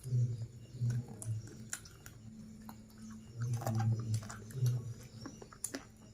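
Close-miked chewing and wet mouth sounds of a person eating: low, muffled pulses in short groups, with many small sharp smacks and clicks.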